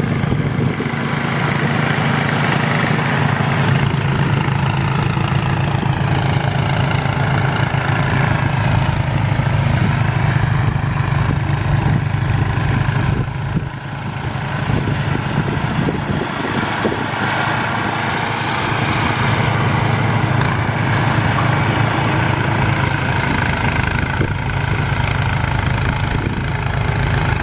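Engine of snow-clearing machinery running steadily, with a brief dip in level about halfway through.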